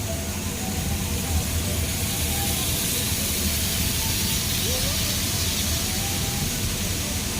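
Small amusement-park train running: a steady low rumble with an even hiss over it.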